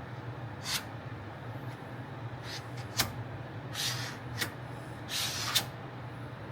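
A plastic spreader scraping body filler in short strokes, several quick swipes and one longer one near the end, over a steady low hum.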